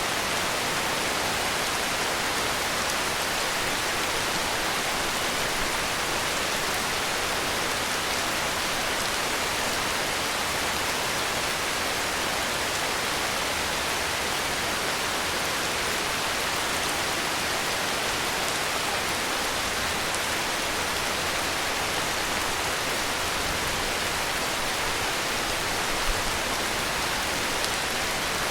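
Heavy rain falling steadily, an even hiss with no thunder, with one faint tap about 26 seconds in.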